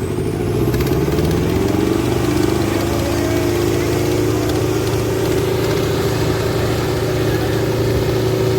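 Diesel tractor engines running hard under heavy load in a tractor tug-of-war. The engine note rises a little over the first two seconds, then holds steady.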